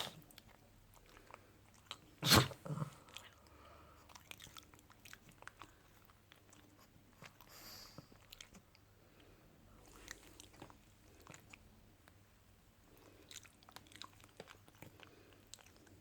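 A pug's quiet mouth sounds: small licking and chewing clicks and smacks. About two seconds in there is one sharp, loud sound, quickly followed by a weaker one.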